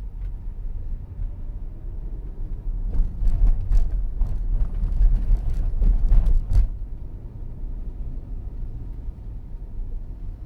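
Road and tyre rumble heard inside the cabin of a Tesla driving slowly on a city street. Between about three and seven seconds in, a run of sharp, irregular clicks and knocks rises over the rumble.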